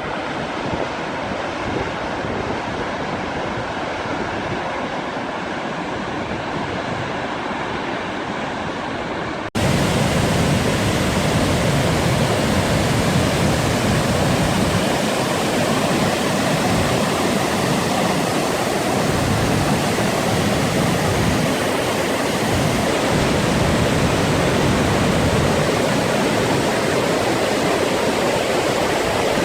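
Steady rush of a waterfall. About a third of the way in it cuts abruptly to a louder, closer rush with more hiss.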